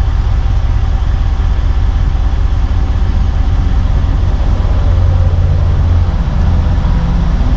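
Supercharged 5.4-litre V8 of a 2007 Mercedes G55 AMG idling with a steady low rumble, heard from the cabin. The rumble swells slightly about five seconds in.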